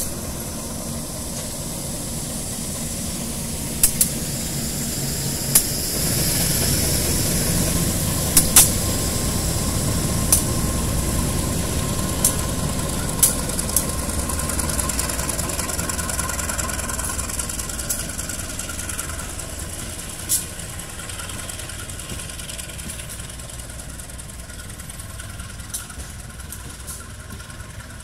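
KAI CC201 diesel-electric locomotive passing close by at the head of a parcel train, its engine rumble building to a peak several seconds in and then fading as the wagons roll past. Sharp clicks from the wheels on the rails come now and then.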